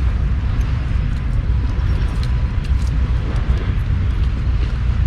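Low, fluttering rumble of wind buffeting the microphone, with scattered small crackles from a wood campfire.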